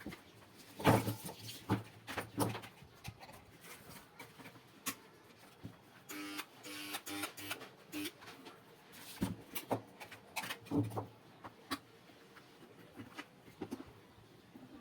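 Irregular clicks and knocks, as of hard parts being handled or tapped, the loudest about a second in, with a short run of low, evenly repeated tones about six seconds in.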